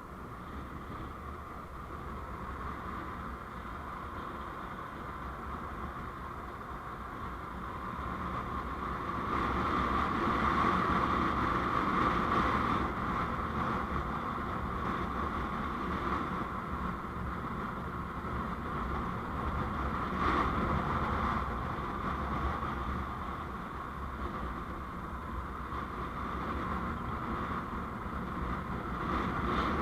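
Steady road and wind noise from a moving vehicle, growing louder about nine seconds in.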